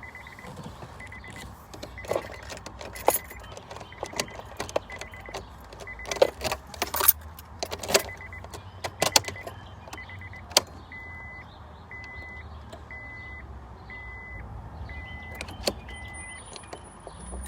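Car's warning chime beeping in an even, steady rhythm, about one beep a second, and stopping near the end, over sharp clicks and rattles of keys and handling inside the car.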